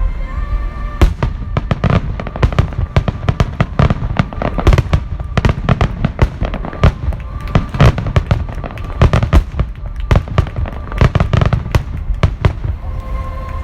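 A fireworks barrage: a rapid, dense string of loud bangs and crackles, several a second, easing off near the end. Thin whistle-like tones sound at the start and again as the barrage stops.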